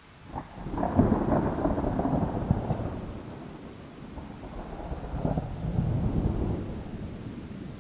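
Thunder rolling over a steady hiss of rain. A sharp onset about half a second in opens a long, low rumble that eases off, swells again around five to six seconds in, and then fades away.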